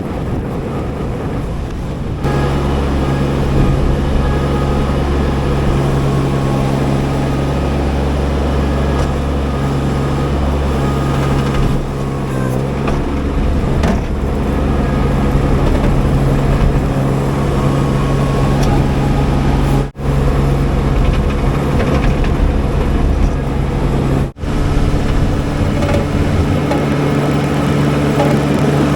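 Baumalight TRL620D mini skid steer's engine running steadily under work. Its note shifts abruptly about two seconds in, and the sound drops out twice, very briefly, later on.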